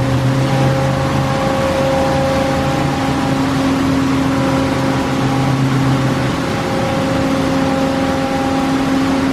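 Tunnel car wash equipment running steadily: a continuous rushing noise with a steady machine whir and hum. A lower hum drops away about six seconds in.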